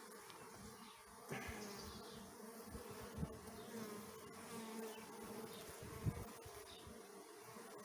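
Honeybees buzzing steadily around an open hive, a low hum of many wingbeats. A couple of light knocks come through it, the sharpest about six seconds in.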